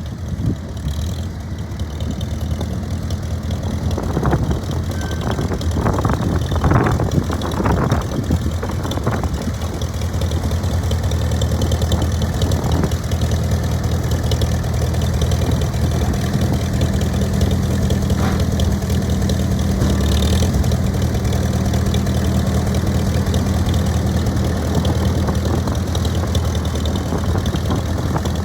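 1940 McCormick W4 tractor's four-cylinder gas engine running steadily, with some clanking knocks a few seconds in, and a steadier, stronger tone from about halfway through.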